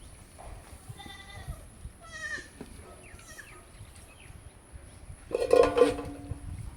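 Goats bleating: a few short, higher calls, then one loud bleat lasting about a second near the end.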